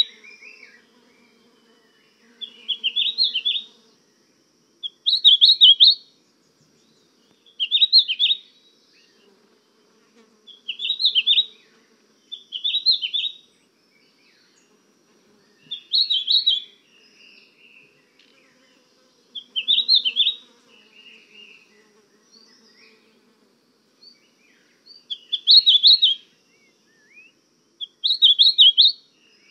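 A songbird singing: short, high, quickly warbled phrases about a second long, repeated every two to three seconds.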